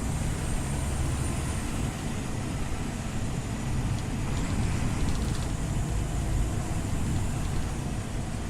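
Scania OmniLink city bus running with a steady low rumble, with a faint high whine that rises and falls and a brief run of faint ticks about halfway through.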